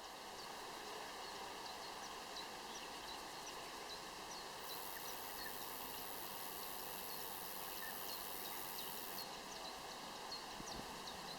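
Countryside birdsong: a bird repeats short, high chirps, about two a second, over a faint, steady outdoor hiss. A very high, thin buzz joins for about four seconds in the middle.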